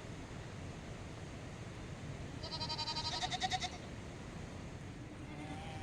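Livestock bleating: one long, quavering bleat about two and a half seconds in, and another beginning near the end, over a steady hiss.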